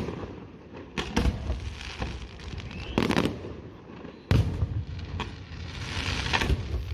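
Fireworks display: aerial shells bursting in a string of sharp bangs at irregular intervals, the loudest about four seconds in, with crackling just before the last bang.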